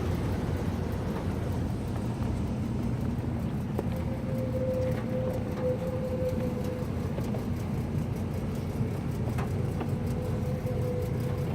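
Steady low mechanical hum of rooftop HVAC gas pack units running, with a faint steady whine that comes in about four seconds in and again near the end.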